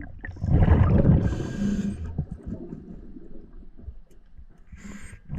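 Underwater breathing of a scuba diver through a regulator: a loud bubbling, rumbling exhale for about a second and a half, then quieter water noise and a short hiss near the end.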